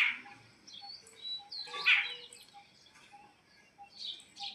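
A small bird chirping: several short, separate calls, the loudest about two seconds in and another cluster near the end.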